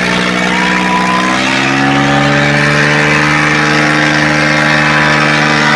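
Tractor diesel engine running hard, its pitch climbing steadily from about a couple of seconds in.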